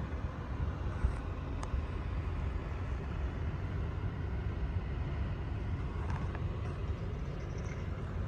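Steady low rumble of a motor vehicle running, with a faint click about a second and a half in.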